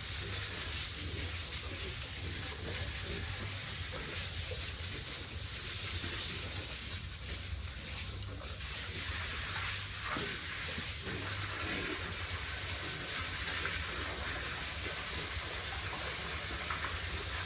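Water spraying in a steady hiss over a continuous low hum.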